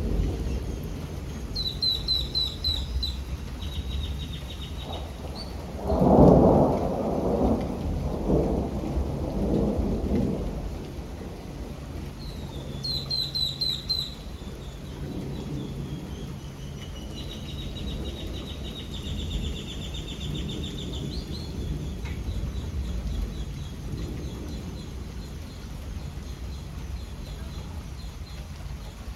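Thunderstorm: steady rain with a continuous low rumble of thunder, and a loud peal about six seconds in that rolls on for some four seconds. A songbird sings short phrases of quick high repeated notes several times over the storm.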